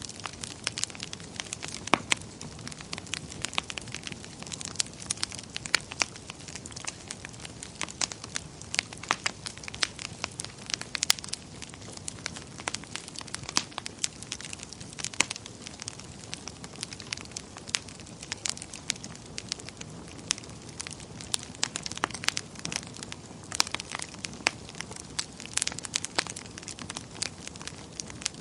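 Wood burning in a fireplace, crackling with frequent, irregular sharp pops over a low, steady rush of flame.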